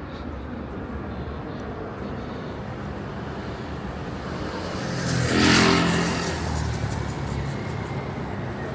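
A motor vehicle's engine passing close by, swelling to a peak about five and a half seconds in and then fading, over a steady hum of city traffic.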